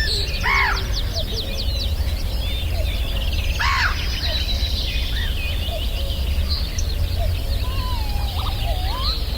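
Many birds calling together in an evening chorus: a dense mix of short whistles and chirps, with two louder harsh calls, crow-like caws, about half a second and three and a half seconds in, over a steady low rumble.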